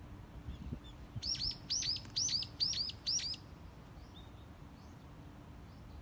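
A small songbird singing one short phrase of high, downward-sweeping paired notes, repeated about five times over two seconds, then a few faint chirps near the end.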